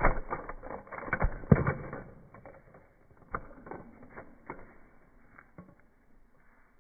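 A rapid, irregular run of mechanical clicks and rattles, dense and loudest in the first two seconds, then thinning to scattered clicks that fade out.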